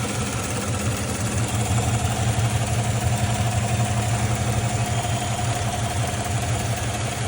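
GM L83 5.3-litre V8 idling steadily, with a tick that the owner suspects comes from a lifter.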